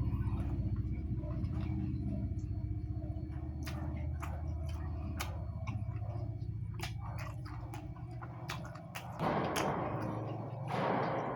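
A person eating: chewing with scattered sharp mouth clicks and smacks, over a steady low hum. Two louder, noisier stretches of eating sound come near the end.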